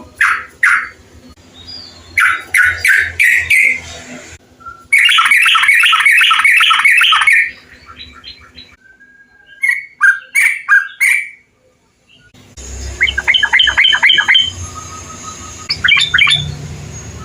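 Yellow-vented bulbuls (trucukan) calling in rapid bursts of bubbly chirps, in several recordings spliced one after another with abrupt cuts.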